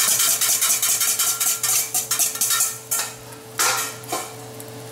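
Beaten egg and milk sizzling and crackling in a hot buttered steel pan, the sizzle easing off after about three seconds. Two brief scuffs come near the end.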